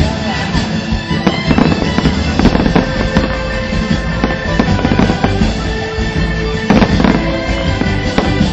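A fireworks display: repeated shells bursting with sharp booms and crackle, the loudest about seven seconds in, over music playing alongside the show.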